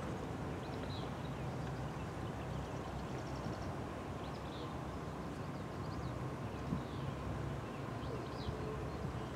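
Diesel locomotives of an approaching coal train running in the distance, a steady low rumble. Small birds chirp faintly now and then.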